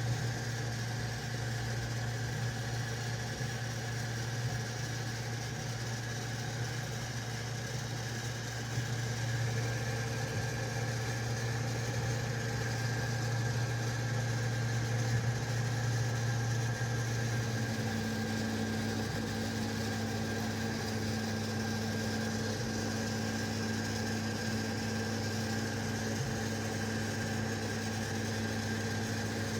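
FlashForge Adventurer 4 3D printer running a print: a steady mechanical hum whose tone shifts about eighteen seconds in.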